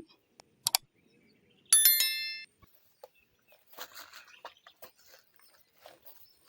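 A sharp click, then about two seconds in a single bright metallic ring, a bell-like strike with several clear tones that fades within about a second. Faint scattered taps and scuffs follow.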